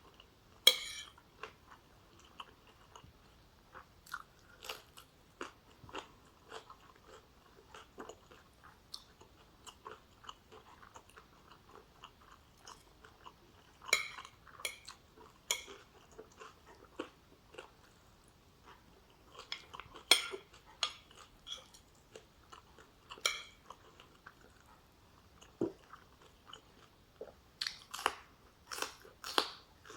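Close-miked eating sounds from a meal of oxtail stew, rice, onion and vegetables: irregular chewing with wet clicks and crisp crunches, a few of them noticeably louder than the rest.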